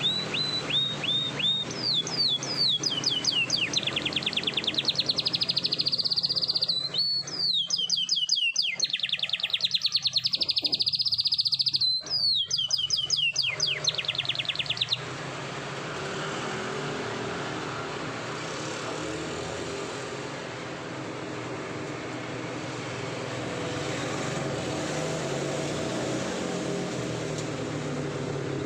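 Domestic canary singing long rolls: fast trills of rapidly repeated notes between sweeping whistles. The song stops abruptly about halfway through, leaving a steady rumbling background noise.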